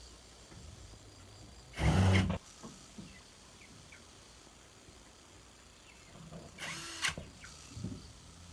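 Two short bursts of a handheld power drill: a loud half-second run about two seconds in and a weaker one near seven seconds.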